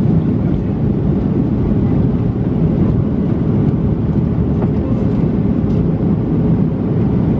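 Steady cabin noise inside a Boeing 737-700: the hum of its CFM56 turbofan engines and the rush of air along the fuselage, mostly low in pitch with a faint steady tone, unchanging throughout.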